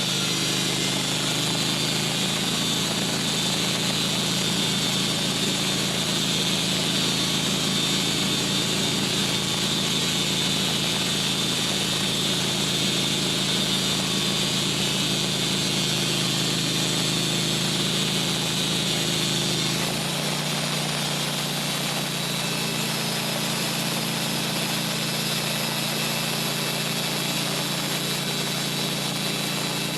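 Sawmill engine running steadily under load with a high whine as it saws a hemlock log into boards. The pitch and tone shift about two-thirds of the way through.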